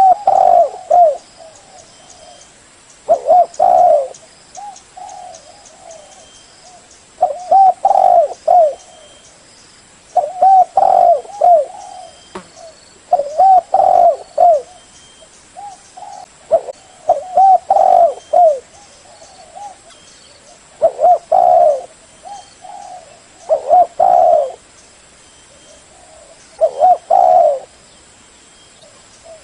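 Spotted dove cooing: short phrases of a few low coos, each phrase about a second long, repeated about every three seconds.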